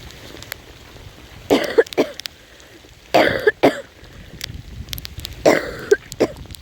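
A person with a cold coughing in three fits, each of two or three coughs, about a second and a half apart.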